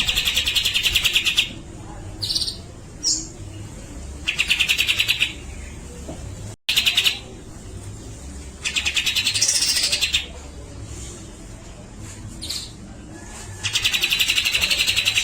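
Grey-cheeked bulbul (cucak jenggot) giving harsh, rapid rattling calls in bursts of about a second, five times, with short single notes between them. The sound cuts out briefly about halfway through.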